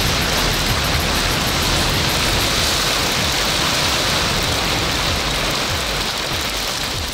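Heavy rain pouring down hard in a thunderstorm, a steady dense hiss that eases slightly near the end.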